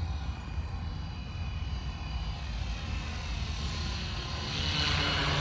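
Electric 450-size RC helicopter flying, its motor and rotor giving a steady high whine over a low rumble. A rushing sound grows louder from about four and a half seconds in.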